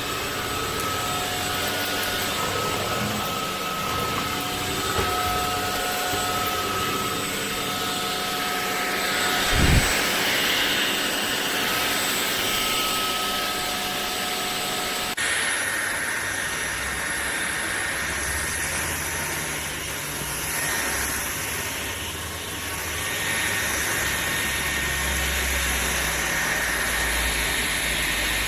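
Ultenic U16 Flex cordless stick vacuum running: a steady rush of air with a high motor whine. A brief low thump comes near ten seconds in, and about fifteen seconds in the sound switches abruptly to a different steady whine.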